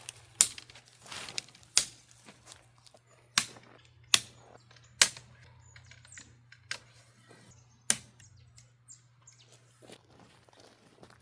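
A series of sharp, irregularly spaced knocks and clicks, about seven in all, the loudest about half a second in and around four seconds in, over a faint steady low hum.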